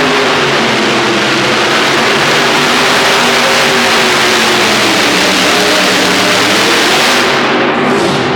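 Modified pulling tractor's engines running hard under load during a pull: a loud, steady engine sound with a thick hiss over it. About seven seconds in, the top end of the sound drops away.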